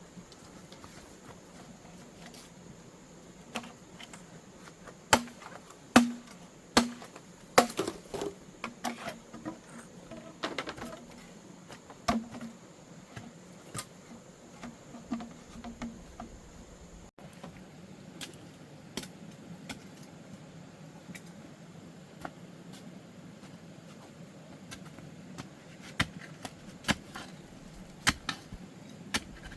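Irregular sharp knocks and taps, many in quick succession through the first half, then a few more near the end; some carry a short hollow ring.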